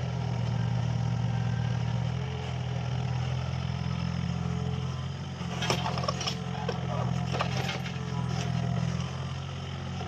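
Mini excavator's diesel engine running steadily while working, with a series of sharp knocks and clanks in the second half.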